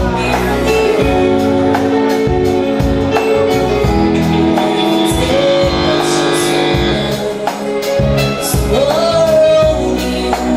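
Live fusion band music: a steady beat of drum and cymbal hits under held chords, with a voice singing.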